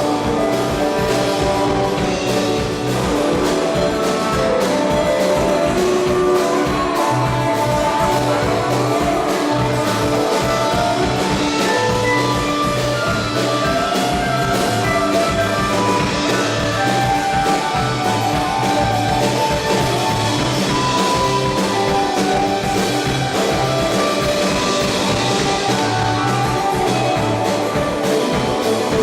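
Live rock band playing an instrumental jam: guitar lines over a drum kit, with no break.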